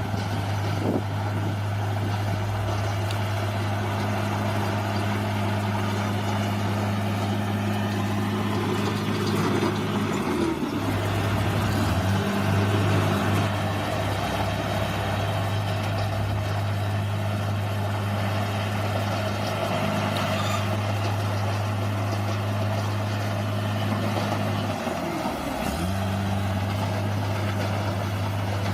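Bulldozer's diesel engine running steadily under work. Its note dips and recovers briefly twice: about a third of the way in and again near the end.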